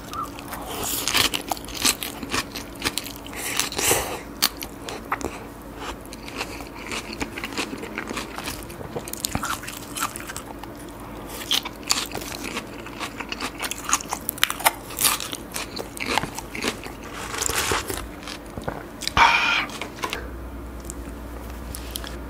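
Crisp crunching and chewing of a mouthful of shredded cabbage and carrot salad: a dense run of short, sharp crunches that thins out in the last couple of seconds.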